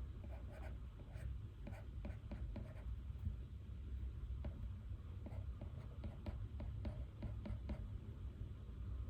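Pen writing on paper, short scratchy strokes coming in quick runs and thinning out near the end, over a low steady room hum.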